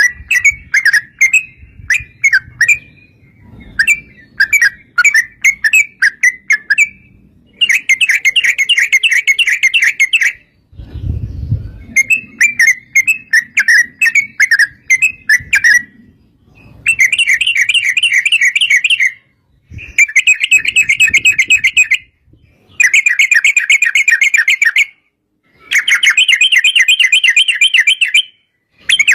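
Yellow-vented bulbul (trucuk) song: a fast, chattering run of bubbly notes, first in short broken phrases and then in long rapid trills of two to three seconds each, separated by short pauses. A brief low rumble comes about eleven seconds in.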